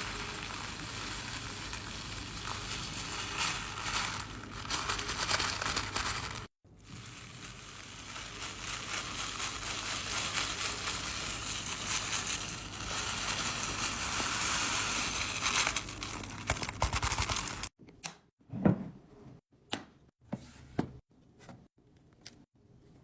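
Plastic packaging crinkling and rustling as items are handled, then a run of separate light knocks and taps as things are set down.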